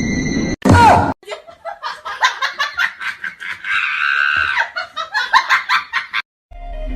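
A person laughing hard in rapid bursts for about five seconds, with a higher drawn-out stretch in the middle, cut off shortly before the end.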